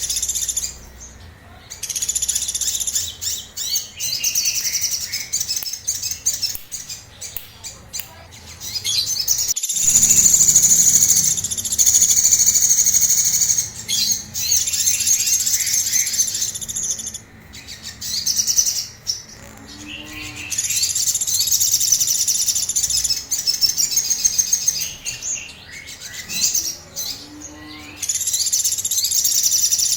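A sogon songbird in agitated song: bursts of rapid, high-pitched chirping trills several seconds long, broken by short pauses.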